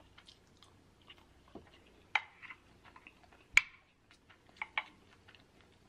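Close-miked chewing of a mouthful of rice with small wet mouth clicks, and a few sharper clicks, the loudest a little past halfway, as a wooden spoon scrapes and knocks on the plate.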